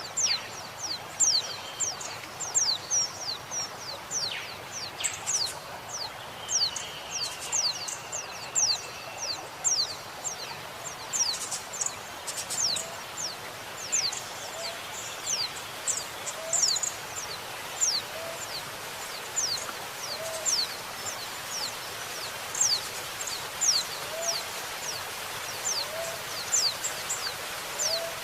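Female white-eye (pleci) calling: a quick series of thin, high notes, each sliding downward, a few a second, over a steady hiss of running water. A soft low note from another bird repeats about every second and a half in the second half.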